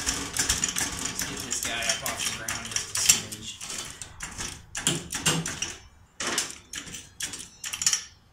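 A jack being worked to raise the front of a riding mower: a dense run of rapid metallic clicks and rattles that thins to a few separate knocks over the last couple of seconds.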